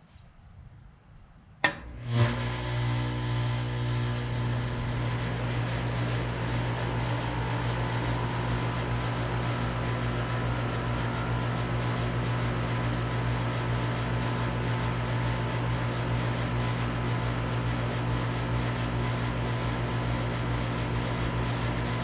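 A 2003 Lennox Elite Series heat pump's outdoor unit starting up: a sharp click about one and a half seconds in, then its Copeland scroll compressor and fan come on and settle into a steady, loud low hum, a bit rattly.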